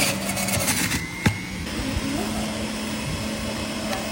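A motor running steadily, with a sharp click a little over a second in.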